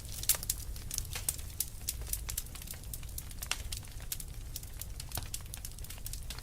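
Wood fire crackling, with frequent sharp pops and snaps at an uneven pace over a steady low rumble.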